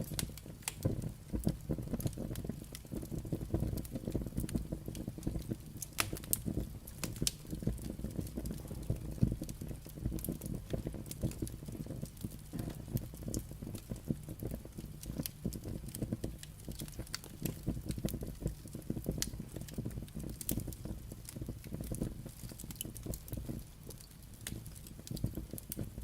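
Firewood burning: frequent, irregular sharp crackles and pops over a steady low rush of the fire.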